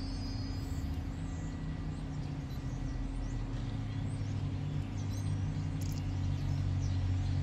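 Low, steady drone of a distant diesel-hauled train approaching the station, growing a little louder toward the end, with faint bird chirps above it.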